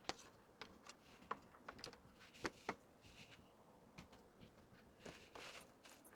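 Faint handling sounds: a string of light clicks and taps, with a soft rustle near the end, as small items and their packaging are picked up and set down.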